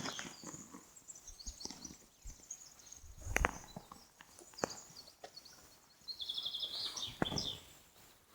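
Small birds chirping, with a quick run of repeated high notes about six seconds in, and a few scattered sharp clicks.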